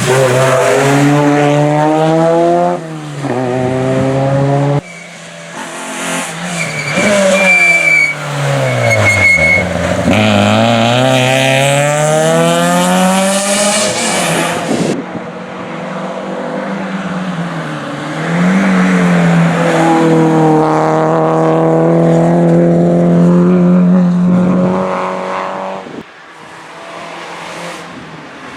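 Rally car engines revving hard on a stage, pitch climbing and falling with gear changes and lifts, with a brief high tyre squeal about eight seconds in.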